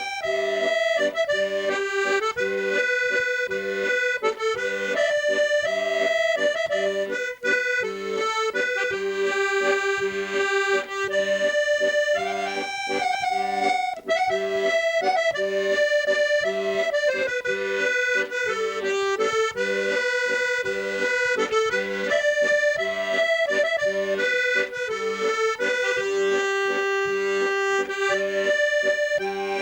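Accordion playing an Irish traditional tune solo, a quick run of reedy notes over a steady held chord.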